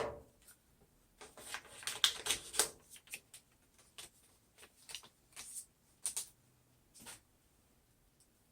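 Contact-paper transfer tape being peeled back off a freshly applied vinyl decal on a metal sign: a dense crackling rustle for a couple of seconds, then scattered light clicks and short rustles that stop about seven seconds in.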